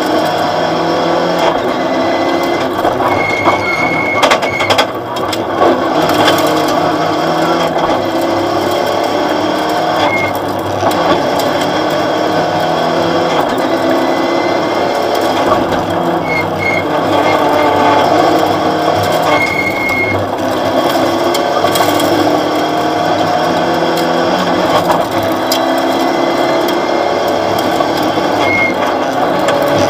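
Opel Astra OPC rally car's engine heard from inside the cabin at full stage pace, revving hard and rising and falling in pitch again and again as the driver works through the gears, with transmission and cabin rattle alongside.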